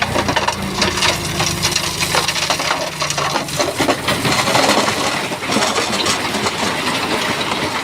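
Shantui bulldozer's diesel engine running under load while rocks clatter and grind against each other as the blade pushes stone. The engine note is plain at first, and about three and a half seconds in the rattle of tumbling stone takes over.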